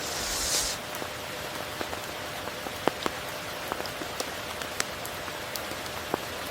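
Steady heavy rain: a constant hiss with separate drops clicking throughout, and a brief louder high hiss in the first half second or so.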